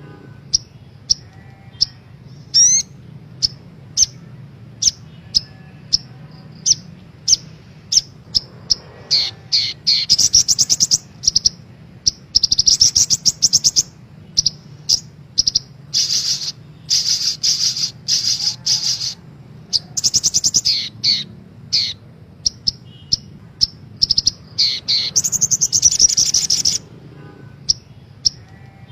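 Sogok ontong sunbird singing: a stream of short, sharp, high chips broken by longer, rapid twittering trills, over a steady low hum.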